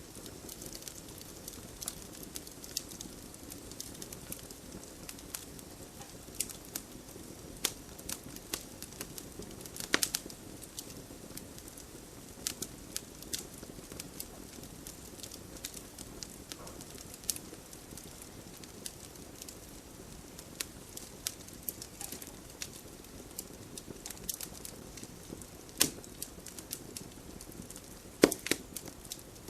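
Wood fire burning in a fireplace: a steady low hiss with irregular sharp crackles and pops, a few louder snaps among them, the loudest near the end.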